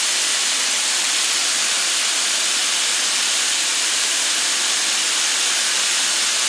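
Thin strips of beef and sliced onions sizzling steadily in butter on a hot griddle.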